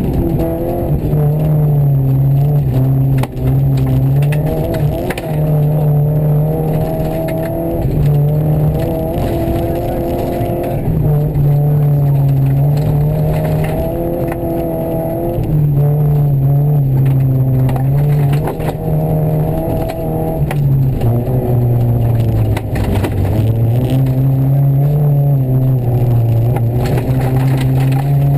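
Rally car engine heard from inside the cabin, revving hard and dropping back again and again as it works through the gears at speed. Scattered clicks and knocks run underneath.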